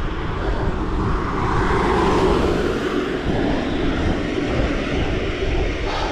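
A motor vehicle passing on the road, its rushing noise swelling to a peak about two seconds in and then fading.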